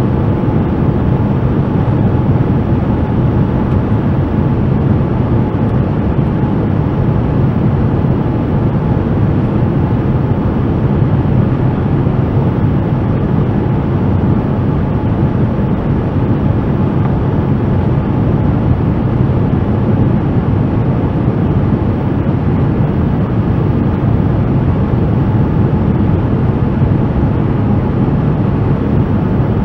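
Steady engine and airflow noise inside the cabin of a Boeing 787-9 with Rolls-Royce Trent 1000 engines, with a faint steady hum above it.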